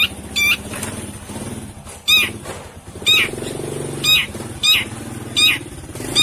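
Long-tailed shrike giving short harsh calls, repeated about once a second, over a low steady hum.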